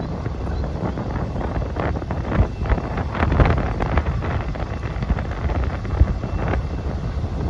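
Wind buffeting the microphone over a steady low rumble, with a few sharp knocks through the middle.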